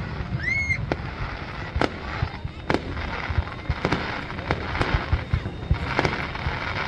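Fireworks display going off: many irregular sharp cracks and bangs over a steady rumble, with a short rising whistle about half a second in.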